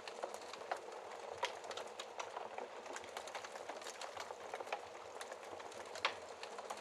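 Wood fire crackling in a fireplace: a steady soft hiss with irregular sharp pops and snaps, a louder pop about six seconds in.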